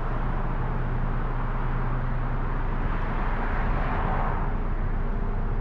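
Steady rumbling noise of a moving vehicle with a low hum underneath.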